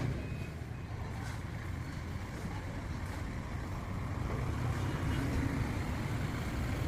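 A motor vehicle running steadily: a low rumble under road noise, growing a little louder near the end.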